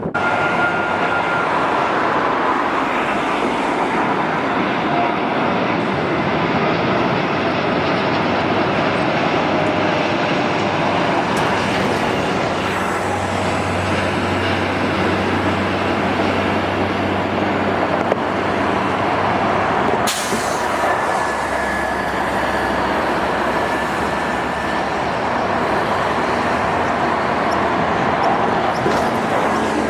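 Jet airliner engines running: a loud, steady rushing noise with a faint high whine that drifts in pitch.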